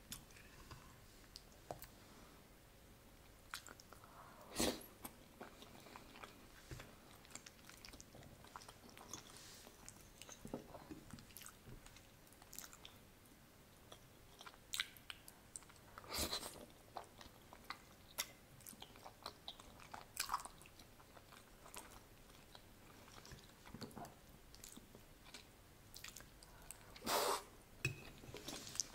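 Close-miked chewing of soft ravioli in tomato sauce: quiet, sticky mouth sounds with small scattered clicks and smacks, and a few louder ones spread through.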